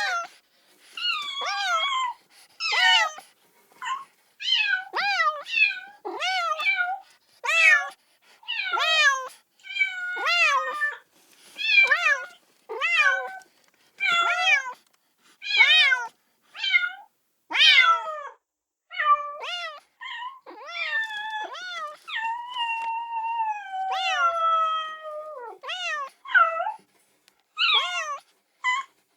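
Kitten meowing over and over, calling for its mother: high-pitched meows about once a second, many dropping in pitch at the end, with one long drawn-out meow shortly before the end.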